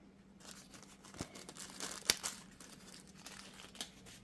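Scattered light clicks and knocks of hand tools and U-joint parts being handled at a workbench, the sharpest a bit over two seconds in, over a faint steady hum.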